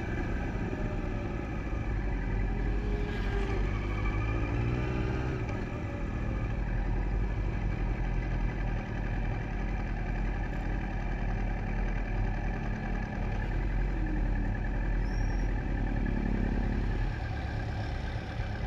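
Sport motorcycle engine running at low speed, a steady low drone that rises and falls a little in pitch as the bike rolls slowly.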